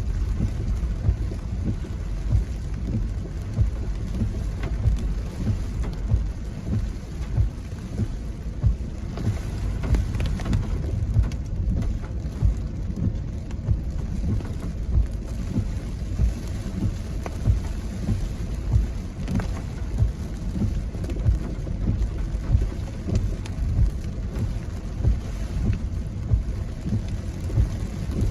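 Strong typhoon wind buffeting the microphone: a steady low rumble with short gusty peaks about every second or so, over a faint hiss of rain.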